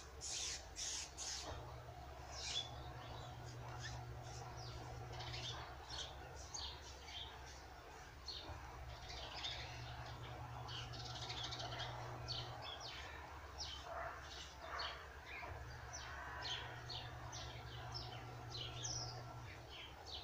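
Small birds chirping, many short high calls scattered throughout. Under them a low hum comes and goes in spells of about four seconds.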